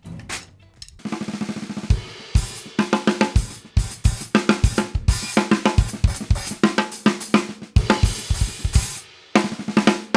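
Drum kit played through a groove on a freshly tuned 14x6.5 Gretsch Full Range walnut snare with a new Evans UV1 head and new snare wires. A quick snare roll comes about a second in, then kick, snare and cymbals in a steady beat. The beat breaks off briefly near the end, and one or two last hits follow.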